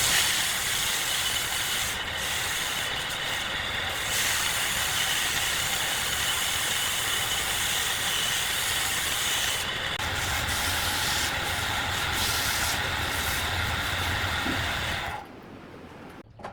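Steady hissing machine noise with a faint high whine, cutting off suddenly about fifteen seconds in.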